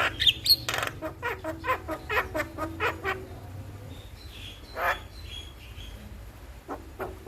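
Javan myna chattering: a quick run of clicks and short harsh notes for about three seconds, then a single longer call about five seconds in and a couple of faint notes near the end.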